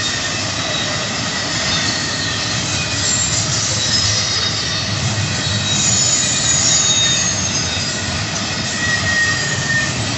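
Intermodal freight train's double-stack container well cars rolling steadily past, steel wheels on rail. High, thin wheel squeals come and go over the rumble.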